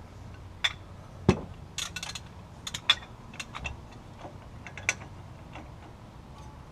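Irregular metallic clicks and clinks of a socket wrench being worked on the hub assembly's mounting bolts, with one heavier knock about a second and a half in.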